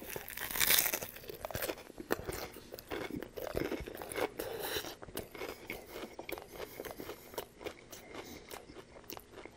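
A bite into a fried, battered chicken-breast chalupa shell, crunching loudly in the first second, followed by steady crunchy chewing.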